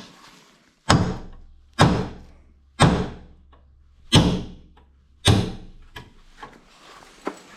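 Five hammer blows on a steel plate and bolt, about a second apart, each a sharp strike with a short ring, driving a seized plate off a fertiliser spreader's frame.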